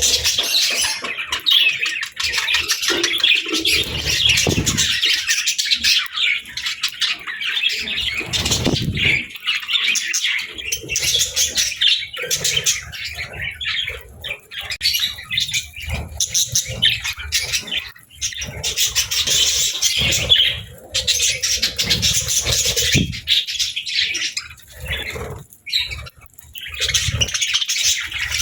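Pet parrots chattering and squawking continuously in quick, high-pitched runs, with a few low bumps now and then.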